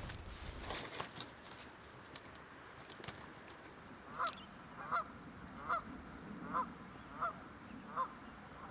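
A bird calling over and over, a short two-note call roughly every three quarters of a second, starting about four seconds in. Faint clicks and rustling come before it.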